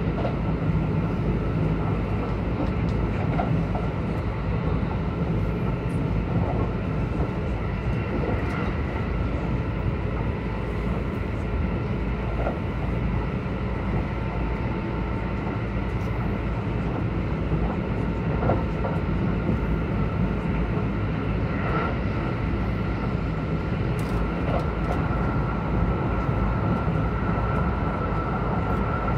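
Kintetsu 22000 series limited-express train running at steady speed, heard from inside the passenger cabin: a steady low rumble of wheels and running gear, a thin steady whine above it, and a few faint clicks over the rail joints.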